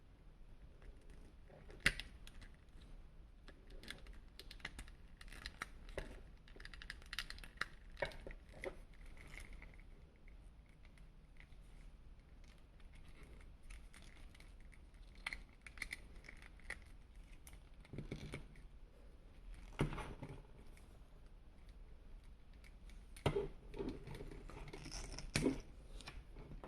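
Scattered small plastic clicks, taps and light rustling from an action figure and its parts being handled, with a few sharper knocks about two seconds in, near the middle and towards the end.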